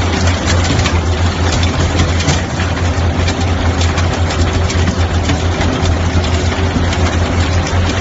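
Diesel engine of a JS100 skid steer loader running steadily with a deep low hum, with brief clatter over it.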